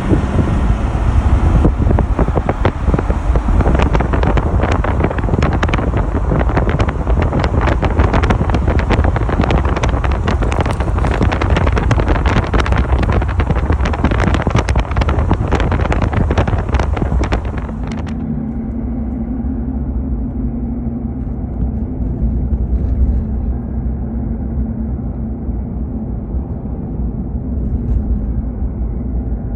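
Car on the move: loud, gusty wind and road noise buffeting the microphone. About eighteen seconds in it drops abruptly to a steadier, quieter engine and road hum.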